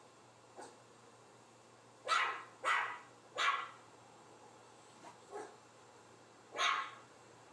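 Dog barking: three loud, sharp barks in quick succession about two seconds in, a couple of fainter barks after them, and one more loud bark near the end.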